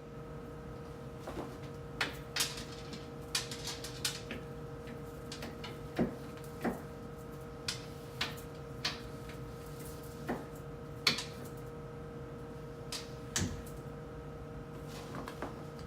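Irregular clicks and knocks of containers and items being picked up and set down on refrigerator shelves, over a steady electrical hum.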